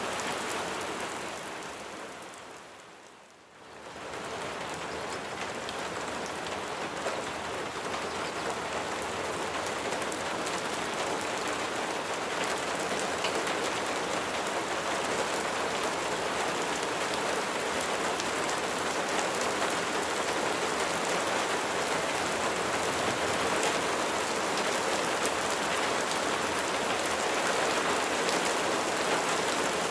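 Steady rain falling, an even hiss of drops; about three seconds in it fades down almost to silence and then swells back up, as at the seam of a looped recording.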